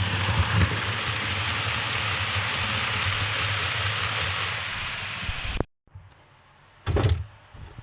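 OO gauge model train running on the layout: a steady rumbling hiss with a low hum that cuts off suddenly about five and a half seconds in, followed by a short knock.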